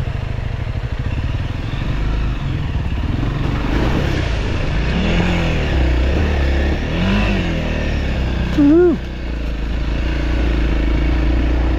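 Motorcycle engine running steadily under way, with wind noise. About three-quarters of the way through, a rider's loud shout of 'woohoo' rises over it.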